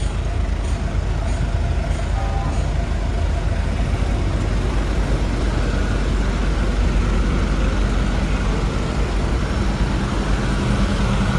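Motorbike engine running steadily under way, with road noise and street traffic around it.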